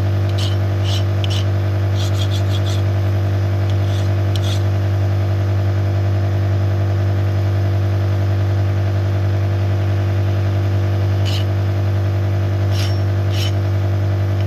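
A shop machine's electric motor hums steadily and loudly with a deep tone. Over it a hand file scrapes in short strokes on the edge of a steel connecting rod: a run of strokes in the first few seconds, then a few more near the end.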